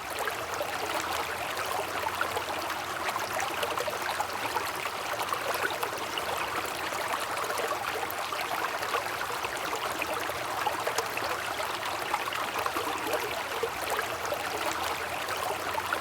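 River water flowing steadily, a continuous babbling rush of moving water.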